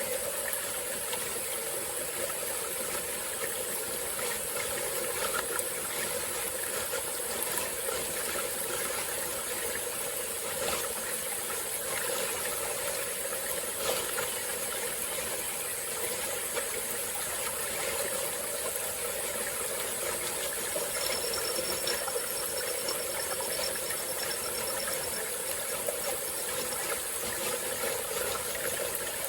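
Small tropical-forest stream flowing steadily over rocks, an even rushing and trickling. A faint thin high tone sounds for a few seconds past the middle.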